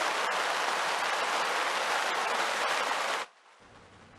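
Floodwater rushing and gushing in a loud, steady torrent. It cuts off abruptly about three seconds in, leaving a much fainter steady noise.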